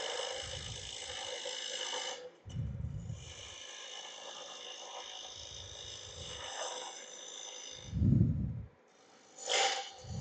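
A bowl gouge cutting a spinning wood blank on a lathe: a steady scraping hiss that breaks off about two seconds in, runs again, and stops about eight seconds in, with a short sharper scrape near the end. Short low puffs of noise on the microphone come every couple of seconds, the loudest about eight seconds in.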